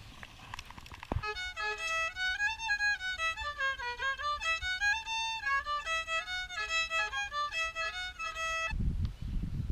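Solo fiddle playing a melody of short stepping notes, starting about a second in and stopping abruptly near the end. A low rumble of wind on the microphone follows.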